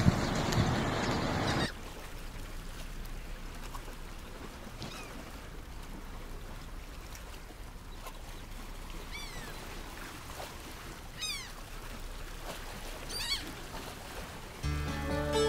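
A loud rushing noise for the first second or two, then quieter outdoor ambience with a few short, falling bird calls. Music starts near the end.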